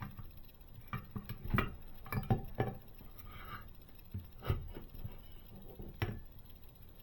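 Small model parts handled on a tabletop: irregular light clicks and taps, a cluster in the first few seconds and single knocks about 4.5 and 6 seconds in.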